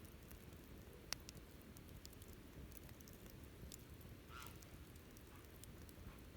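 Wood campfire crackling faintly: scattered small ticks, one sharper pop about a second in, and a brief hiss a little past four seconds.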